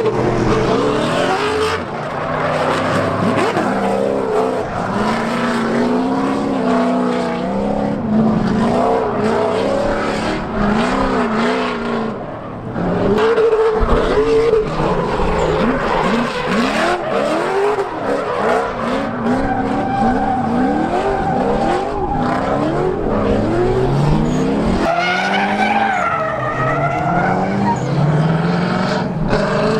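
Swapped 6.0-litre LS V8 (LQ9) in a Nissan 240SX drift car, its revs swinging up and down over and over through a drift run, with tyre squeal.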